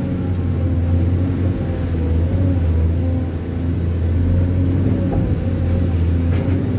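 A vehicle engine running at a steady, even speed, with a low hum.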